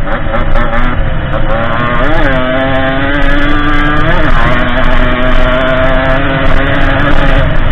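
Derbi 50cc two-stroke engine of a small dirt bike running under way, its revs rising briefly about two seconds in, holding higher, then dropping back a little after four seconds and staying steady.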